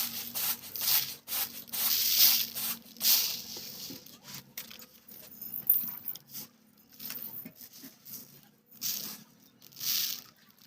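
Irregular scraping and rubbing strokes of hands-on food preparation, with small clicks between them, over a faint low hum.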